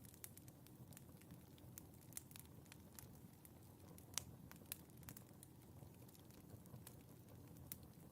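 Wood fire in a fireplace crackling faintly: irregular sharp pops and snaps over a low, steady rush of the flames, with one louder pop about four seconds in.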